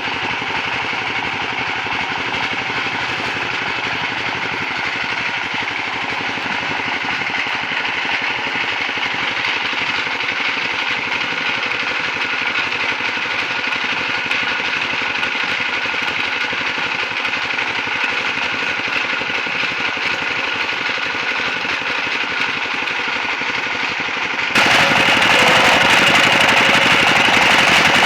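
Sawmill machinery running steadily, an engine-like drone with several steady tones. About 24 seconds in it changes suddenly to a louder, harsher running sound.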